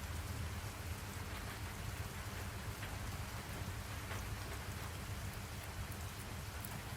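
Steady rain falling, with scattered drop ticks over a continuous low rumble.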